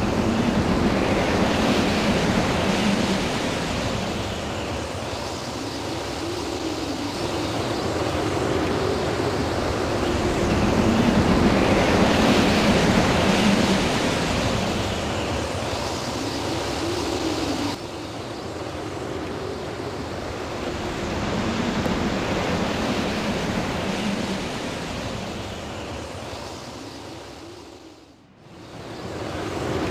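Storm wind gusting, a rushing noise that swells and eases every few seconds, with wind buffeting the microphone. The noise drops suddenly about two-thirds of the way through and fades almost away just before the end before coming back.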